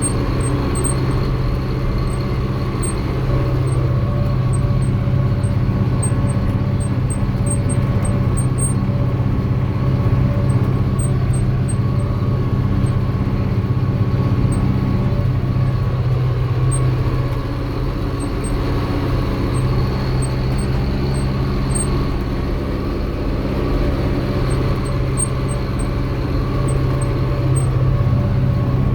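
Fiat 72-94 tractor's diesel engine running steadily under load while pulling a plough. Its note eases slightly for a couple of seconds just past the middle, then returns.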